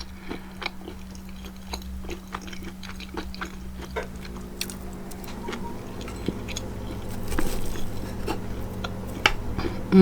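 A person chewing and biting food, jambalaya and cornbread, close to the microphone, with many small, irregular wet mouth clicks. A steady low hum runs underneath.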